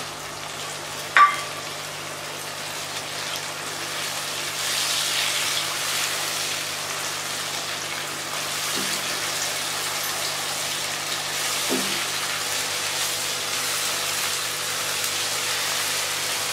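Onions, tomatoes and ginger-garlic paste frying in oil in a nonstick kadai as they are stirred with a spatula: a steady sizzle that grows louder a few seconds in. A single sharp knock about a second in is the loudest sound.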